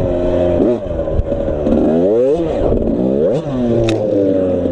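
Suzuki RM85 85cc single-cylinder two-stroke dirt bike engine being ridden, revs dropping and climbing again a few times as the throttle is rolled off and back on. A short sharp click comes about four seconds in.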